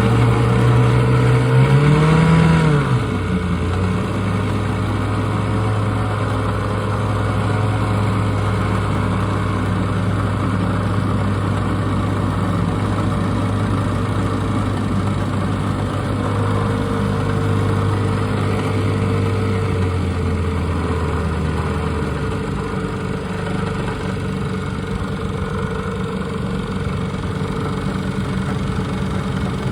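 Two vintage Mercury Mark 6 two-stroke outboard motors running together, with a short rise in revs about two seconds in before settling back to a steady run.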